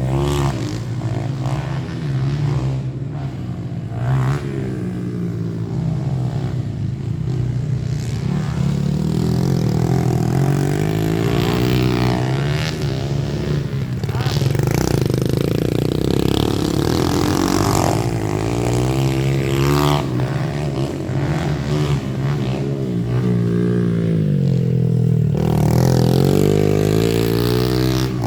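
Small single-cylinder four-stroke pit bike engine revving up and down while riding a dirt track, its pitch rising and falling over and over as the throttle is opened and shut.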